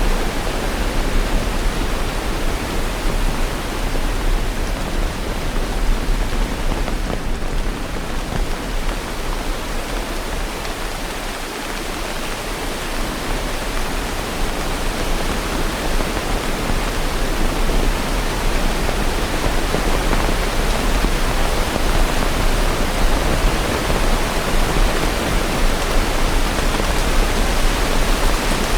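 Steady rain, an even hiss across high and low pitches with no separate drops or thunder, easing a little for a few seconds about a third of the way in.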